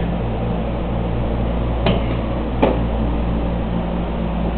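Flood-drying equipment, fans (air movers), running with a steady, even hum. Two light clicks, about two seconds in and again under a second later.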